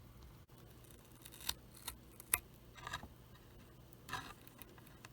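A few faint, scattered clicks and light scrapes of small parts being handled inside the opened drum machine, near its coin-cell battery.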